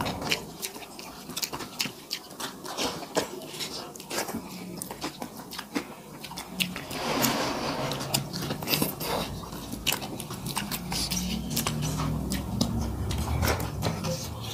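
Wet chewing and lip-smacking of rice and curry eaten by hand, a dense, irregular run of short mouth clicks.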